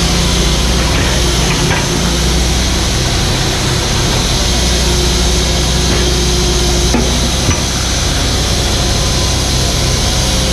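Mini excavator's diesel engine running steadily under load, with the bucket scraping and clattering as it digs, and one sharp knock about seven seconds in.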